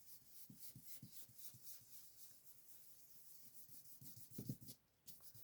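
Faint, repeated short rubbing strokes of an ink applicator swiped across card stock to spread ink, with a brief louder run of strokes about four and a half seconds in.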